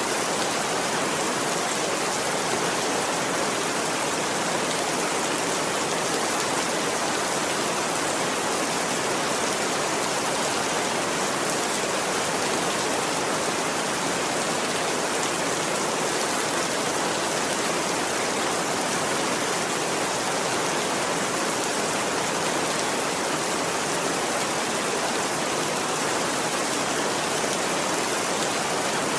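Steady, heavy rain: an even, unbroken hiss of falling water with no lulls.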